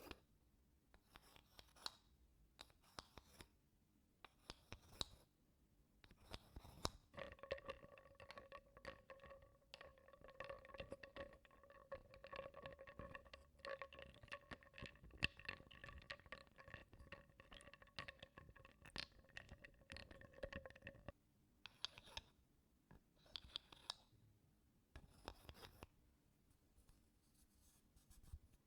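Faint wooden spoon scraping across wooden blocks in short, separate strokes. For a long stretch in the middle, a steady ringing tone with scattered light clicks takes over, then the scraping strokes return.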